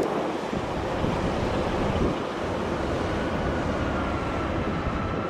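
Wind rushing across the microphone in a strong crosswind, with a faint steady whine coming in about two and a half seconds in.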